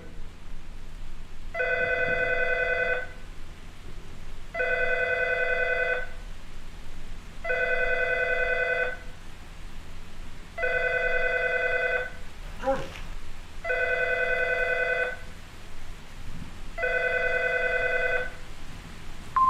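Telephone ringing unanswered: six rings of about a second and a half each, repeating about every three seconds.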